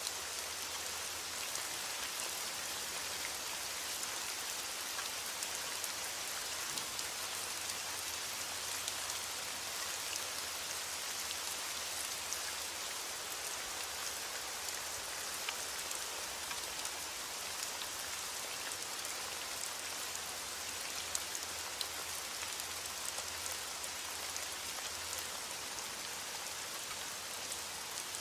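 Heavy rain falling steadily on a window: an even hiss with faint, scattered ticks of single drops.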